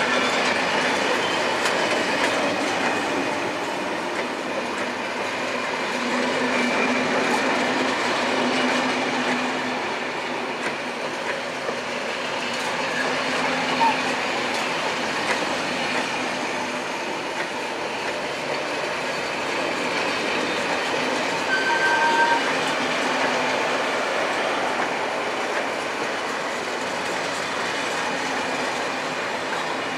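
Passenger train of SNCF Corail coaches rolling past: a steady noise of wheels on rail, with a short high wheel squeal about two-thirds through.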